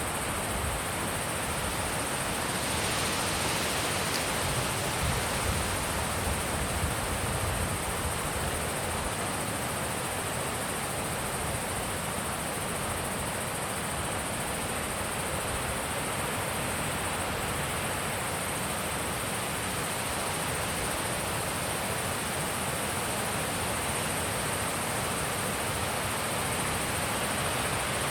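Wind blowing steadily, an even rushing noise that swells slightly about two to four seconds in, with a thin, steady high-pitched hiss above it.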